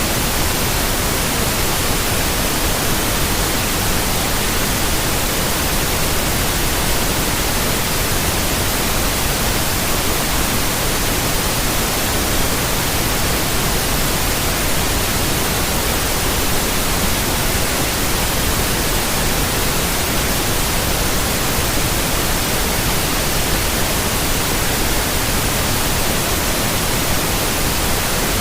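Continuous synthetic white noise: an even, unchanging hiss across the whole range from low to high, steady in level throughout.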